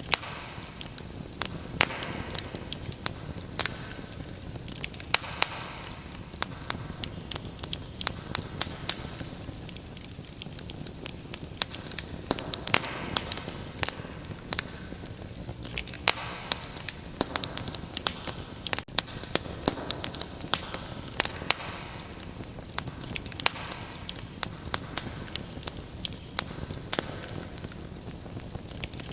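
Wood fire crackling: irregular sharp pops and snaps, many a second, over a steady low hiss.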